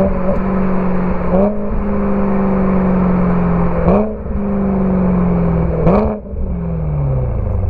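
BMW E92 M3's 4.0-litre V8 through a Borla ATAK exhaust, running under way. The note breaks briefly three times and steps up in pitch at each, like downshifts, then slides down to a low rumble near the end as the revs fall.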